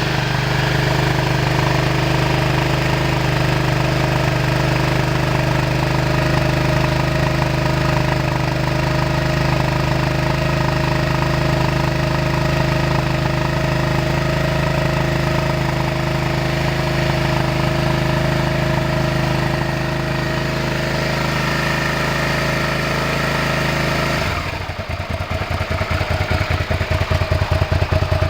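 Suzuki SV650's V-twin engine idling steadily. About 24 seconds in, the sound changes abruptly to a louder, choppier idle with each firing pulse distinct.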